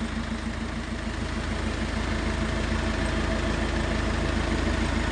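Nissan Navara pickup's engine idling steadily with an even, regular beat, running as it is during an air-conditioning refrigerant recharge.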